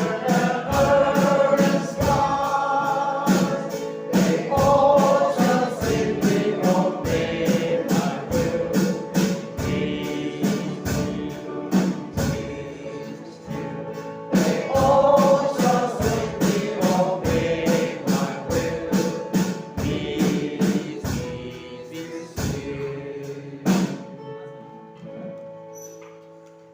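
Choir singing a gospel song over a steady beat. The beat stops near the end and the singing fades out.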